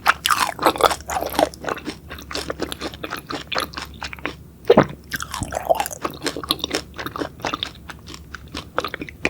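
Close-up chewing of crunchy beef large intestine: moist crackling bites and chewing, with one louder crunching bite about halfway through.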